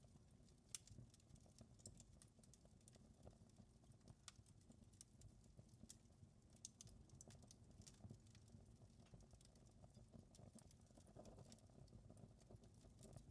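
Faint wood fire crackling, with irregular sharp pops and snaps over a low steady rumble.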